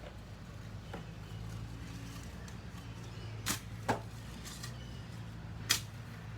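Digging in garden soil while harvesting potatoes: four short, sharp scrapes or knocks about a second in, twice at around three and a half to four seconds, and once near the end, over a steady low hum.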